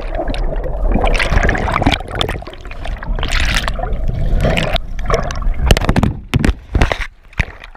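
Rough water rushing and splashing around a kayak in flood rapids, with irregular bursts of splashing. A heavy low rumble of wind buffets the microphone throughout.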